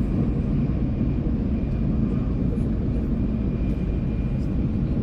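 Steady low rumble of a Shinkansen bullet train running at speed, heard from inside the passenger car, with a faint thin whine held under it.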